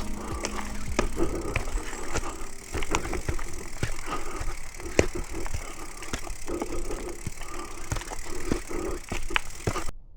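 Loaded bikepacking bike riding over a rough, stony track: tyres rumbling and crunching, with frequent sharp irregular knocks and rattles from the bike.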